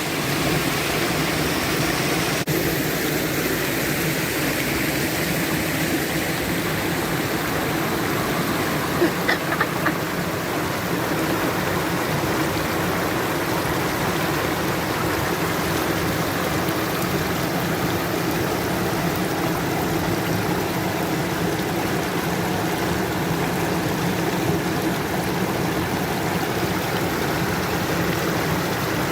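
A forest stream's water running steadily over rocks.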